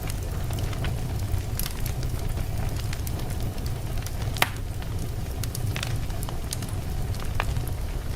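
Wood fire burning in a fireplace: a steady low rumble of flames with irregular sharp crackles and pops from the burning logs, one pop louder than the rest a little past the middle.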